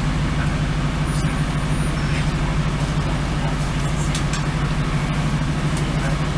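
Diesel train's underfloor engine running with a steady low hum, heard from inside the passenger carriage, with a few faint clicks.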